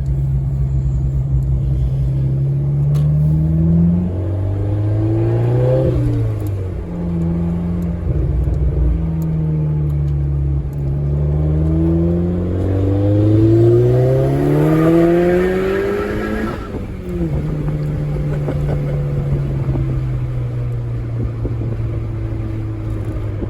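Big-turbo VW Golf GTI Mk4 (GT35R ball-bearing turbo) accelerating hard, heard from inside the cabin: the engine note climbs in pulls and drops sharply at each gear change. In the longest pull a higher whine rises with the revs, then the engine settles to a steady cruise near the end.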